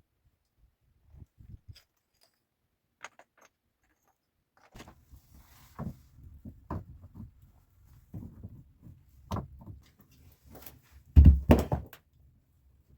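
Scattered short knocks and clicks, with a louder cluster of heavy thumps near the end.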